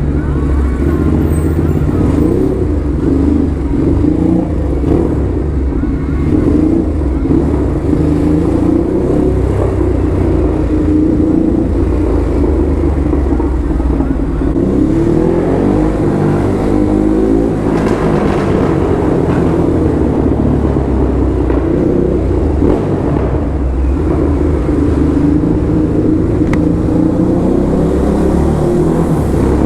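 Ducati Hypermotard SP's Testastretta L-twin engine breathing through an SC Project exhaust while riding, its pitch rising and falling several times as the rider accelerates and eases off.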